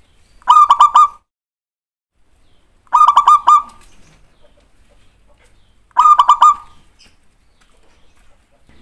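Zebra dove (perkutut) song: three phrases about two and a half to three seconds apart, each a quick run of about four clipped, pitched notes.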